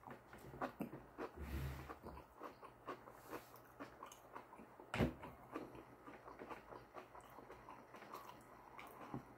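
Faint close-up chewing of a mouthful of sushi: small wet mouth clicks and smacks, with one louder knock about five seconds in.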